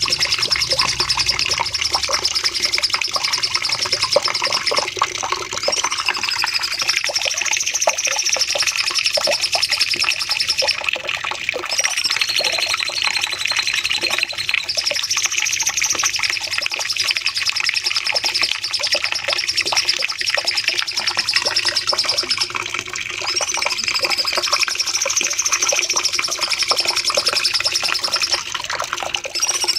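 Cucak cungkok singing a long, unbroken run of rapid, high-pitched chattering trills, the 'nembak panjang' (long shooting) song used as a training recording for songbirds. The same phrase pattern comes round about every nine seconds.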